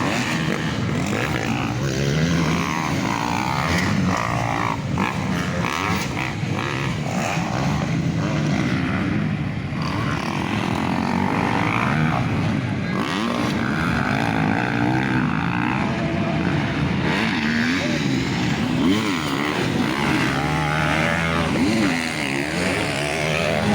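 Motocross motorcycle engines revving, several at once, their pitch rising and falling over and over.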